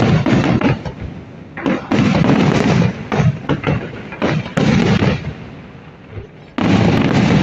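Fireworks going off in rapid volleys of bangs and crackles. Clusters come at the start, from about 2 to 3 seconds in, around 5 seconds in, and again loudly near the end, with quieter lulls between them.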